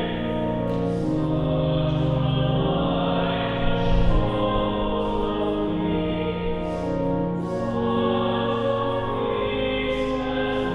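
Choir singing a hymn in long held notes over a sustained accompaniment, with sung words audible; the recessional hymn at the close of Mass.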